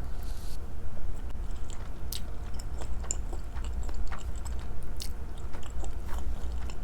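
Close-miked chewing of food, with scattered small mouth clicks and smacks, over a steady low hum.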